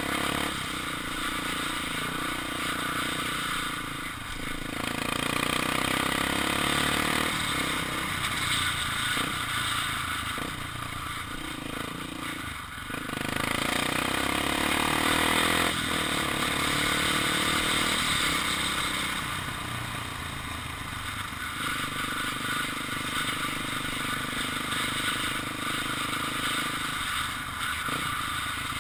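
Honda XR 250 Tornado's single-cylinder engine running while riding, pulling harder and louder about five seconds in and again about halfway through.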